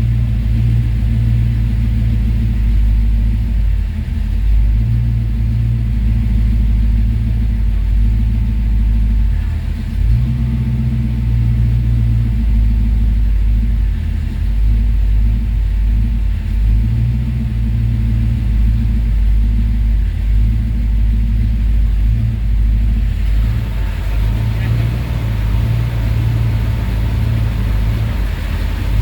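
Car engine idling, a steady low rumble heard from inside the car. About two-thirds of the way through the sound turns brighter and a faint steady tone comes in.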